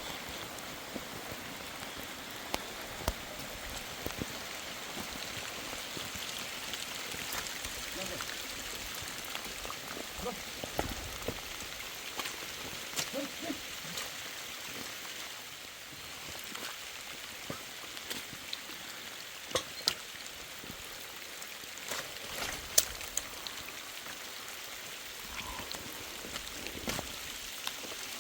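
Steady rain falling, an even hiss with scattered sharp taps of drops landing close by.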